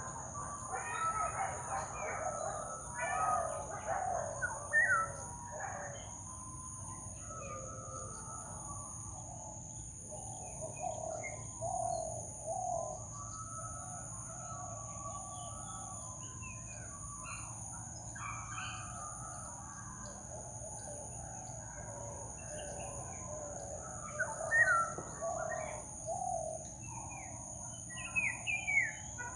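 Mixed chorus of many wild birds chirping and calling, busiest in the first few seconds and again near the end, over a steady high-pitched whine.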